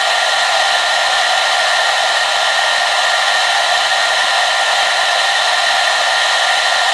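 Hair dryer blowing steadily: a constant airy rush with a faint steady whine from its fan motor.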